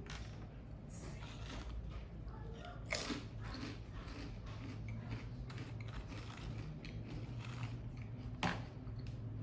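Close-up chewing of a crunchy salad, a steady run of small wet crunches, with a louder crunch about three seconds in and a sharp crisp one near the end.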